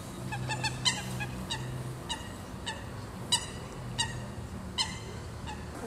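A bird calling in a run of short, sharp calls, about ten in five seconds and irregularly spaced, the loudest about a second in, over a faint low steady hum.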